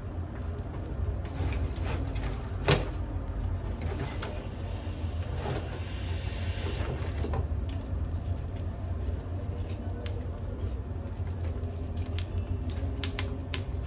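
Wood fire crackling in a pizza oven, with scattered sharp pops over a steady low rumble and one louder knock about three seconds in.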